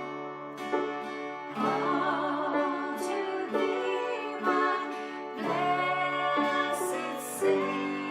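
Acoustic guitar strummed to accompany voices singing a worship chorus.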